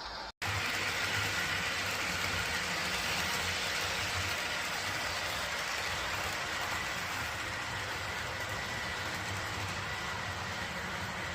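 A train running steadily, an even rumbling noise with a faint high tone held throughout, after a brief cut-out of the sound right at the start.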